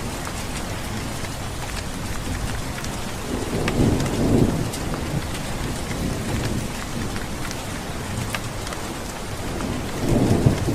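Steady heavy rain with scattered drop ticks, and thunder rolling in twice, a low rumble swelling about a third of the way through and again near the end.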